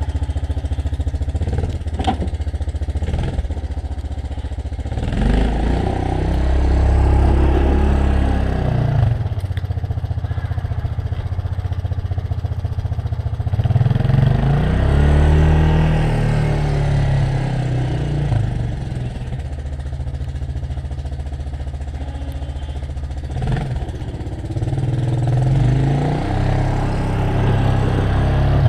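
Gas snowblower's small engine running steadily. Three times its note swells and wavers, as the machine takes a load.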